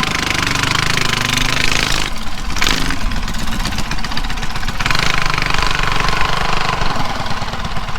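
Drag racing mini bike's small gas engine idling steadily with a fast, even firing rhythm, its sound thinning briefly about two seconds in.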